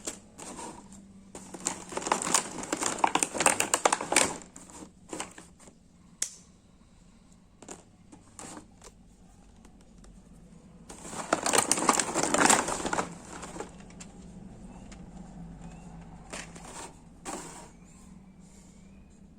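Packaging being handled during a mini-drone unboxing: two bouts of crinkling and rustling, the first about two seconds in and the second past the middle, with scattered clicks and taps between them.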